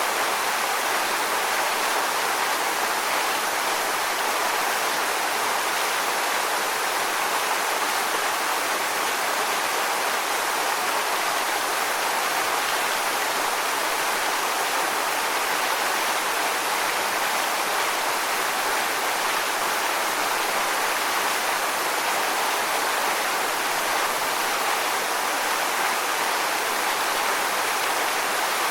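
Waterfall: a steady, even rush of falling water on rocks, with no change in level.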